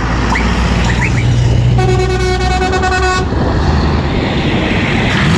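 Truck horn sounding one steady blast of about a second and a half, over a continuous low rumble of truck engines and road noise.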